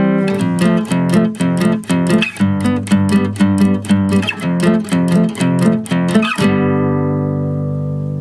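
Background music on acoustic guitar: a run of quickly plucked and strummed notes, ending about six and a half seconds in on a chord left ringing and fading.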